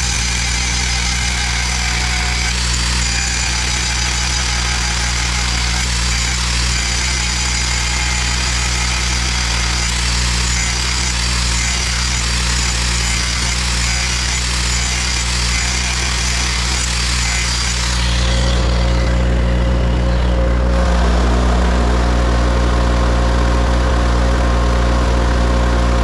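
Portable generator engine running steadily while an electric grinder sharpens a steel finish-mower blade. The grinding noise stops about 18 seconds in, and after that the engine runs on with a steady whine.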